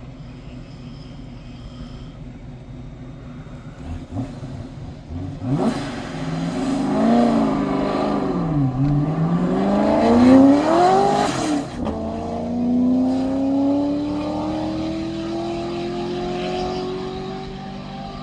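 A high-performance car's engine at a standing-mile race, louder from about five seconds in, with its pitch dipping and climbing as it revs. From about twelve seconds in it settles into a steady, slowly rising note as the car accelerates.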